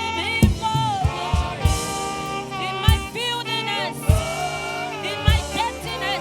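Live gospel worship music: a lead melody with bending, sliding notes over sustained keyboard chords, with a low kick drum beat about every 1.2 seconds.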